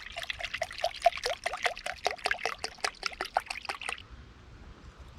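Plant milk glugging out of its container into a bowl of flour and dry ingredients in quick, even gurgles, stopping about four seconds in.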